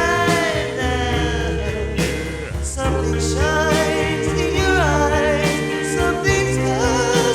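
Rockabilly band music with singing: a full band playing steadily, with vocal or guitar lines bending in pitch.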